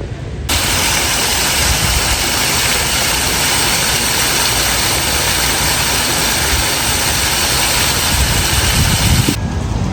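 Steady rush of falling water, an even loud hiss that cuts in abruptly about half a second in and cuts off near the end.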